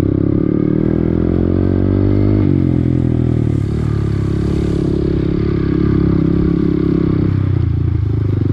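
Honda Grom minibike's small single-cylinder four-stroke engine under way off-road. It revs up for about two seconds, drops sharply, then pulls steadily, with a short dip near the end.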